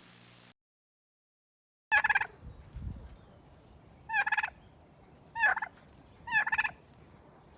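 A turkey gobbling four times, starting about two seconds in. Each gobble is a short, rapid warbling call.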